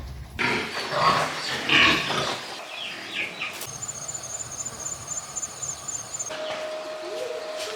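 Pigs calling, loudest in the first three seconds and then softer.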